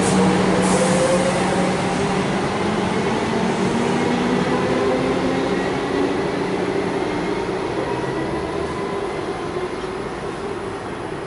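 Refurbished Comeng electric suburban train pulling away from the platform: the motors whine and rise slowly in pitch while the running noise gradually fades.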